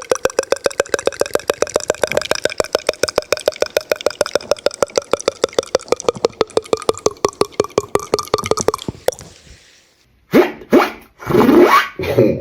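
Beatboxer making a rapid, even train of pitched mouth pops at a steady pitch, which stops about nine seconds in. After a short pause, a different vocal effect with sliding pitch starts near the end.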